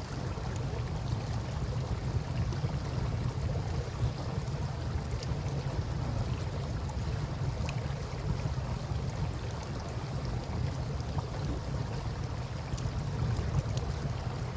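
Campfire crackling with scattered small pops over a steady wash of river water, with a constant low rumble underneath.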